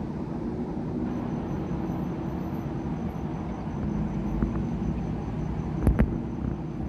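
Distant thunder rumbling low and steady, with a sharp double crack about six seconds in.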